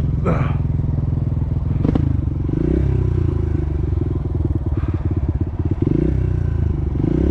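Dirt bike engine running under the rider, its pitch dipping and rising a few times as the throttle changes, with one sharp click about two seconds in.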